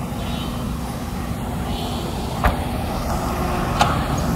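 Maruti Suzuki Gypsy's engine idling, a steady low rumble, with two short clicks in the second half.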